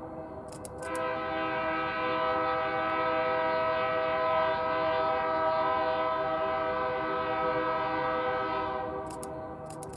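Freight locomotive air horn sounding one long, steady, multi-note blast that starts about a second in and fades near the end, with a few sharp clicks just before and after it.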